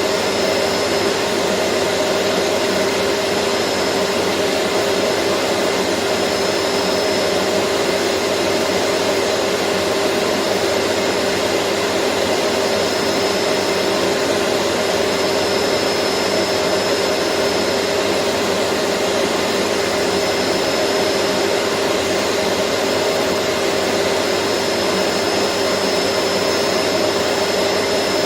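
Vacuum cleaner running steadily, its motor holding a constant hum with a faint high whine over a dense rush of air.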